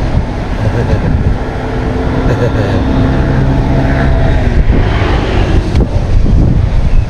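Heavy wind buffeting the microphone outdoors by the water. For a couple of seconds in the middle a steady low hum sits under it, like a motor running.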